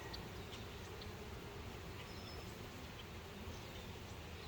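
Honeybees buzzing steadily around an opened hive, a continuous low hum of many bees in flight.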